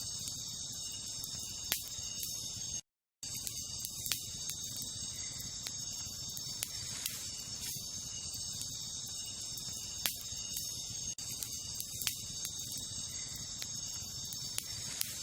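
Wood campfire crackling with occasional sharp pops, over a steady high-pitched chorus of night insects such as crickets. The sound cuts out completely for about half a second around three seconds in.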